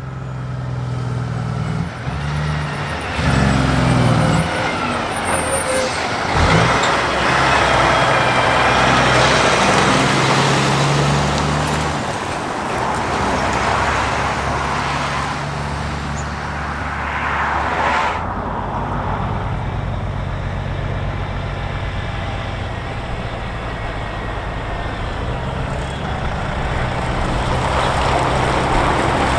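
Heavy diesel truck hauling a race transporter, its engine running steadily as it moves past, with road noise that swells in the middle and drops off suddenly about eighteen seconds in.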